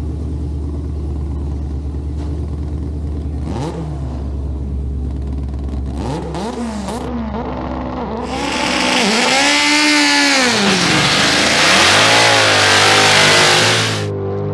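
Dodge Charger's supercharged Redeye V8 idling, then revved up and down several times. About eight seconds in it becomes a loud stretch of hard revving that rises and falls, and it cuts off shortly before the end.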